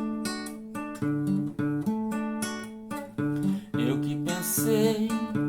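Acoustic guitar strumming chords in a steady rhythm: the instrumental opening of a song.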